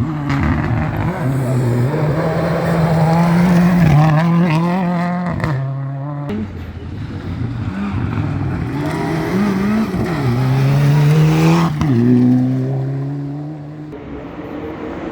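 Rally car engine revving hard at speed, its note climbing and dropping sharply with quick gear changes. It is loudest about four seconds in and again about eleven seconds in.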